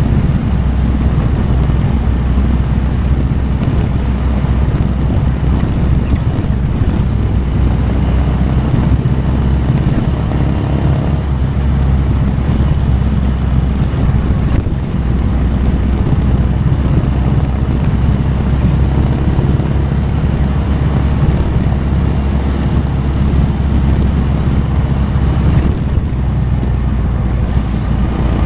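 Motorcycle engine running at a steady, low road speed, with wind rushing over the microphone.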